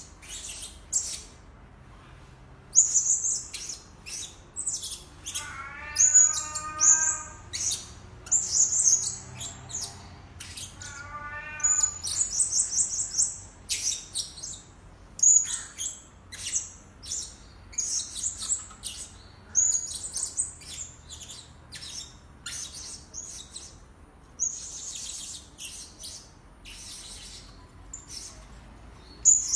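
Blue-crowned hanging parrots calling: irregular bursts of short, shrill, very high-pitched chirps, one after another. Twice, about 5.5 and 11 seconds in, a lower drawn-out call with a rich, buzzy tone sounds under them.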